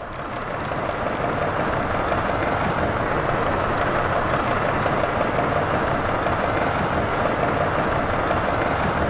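Underwater recording of human-made engine noise, a dense, steady drone that swells up over the first second or two and then holds. It is the kind of industrial noise that drowns out the ocean's natural soundscape, and rapid sharp clicks run over the top.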